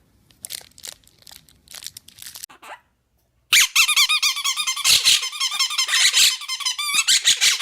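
A candy wrapper crinkling in light, scattered crackles. After a short silent break about three seconds in, a loud, continuous run of rapid high-pitched squeaks follows, each sliding up and down in pitch.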